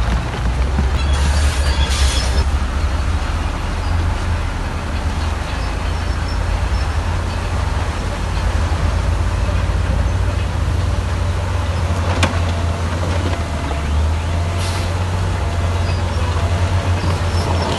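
Crawler bulldozer's heavy diesel engine running under load with a steady deep rumble and track clatter. Brief hisses come about a second in and again about two-thirds of the way through.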